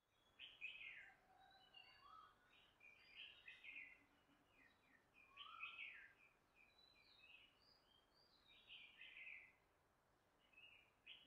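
Faint birdsong: short chirping and warbling phrases repeated every second or two.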